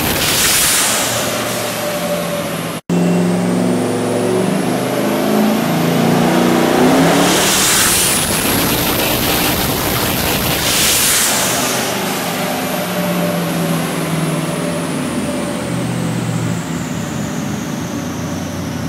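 Twin-turbo 4-litre engine of a Ford Capri making a full-power dyno pull on E85: the engine note climbs for several seconds, with bursts of hissing around the top of the run, then winds down as a high turbo whine falls away. There is a sudden dropout about three seconds in, with the tail of another run before it.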